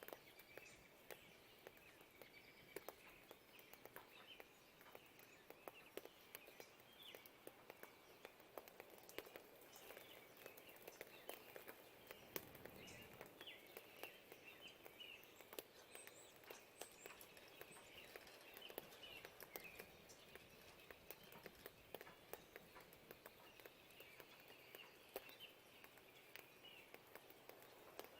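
Faint dawn birdsong, many short chirps from several birds, over a soft patter of rain with scattered drip ticks. A brief low rumble comes about halfway through.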